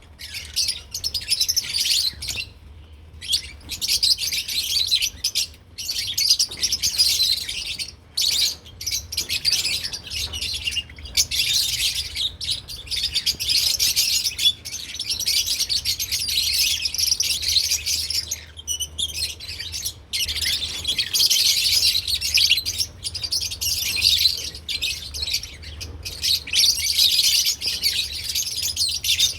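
Lovebirds (Agapornis) chirping and chattering as a dense, high-pitched flock, almost without a break.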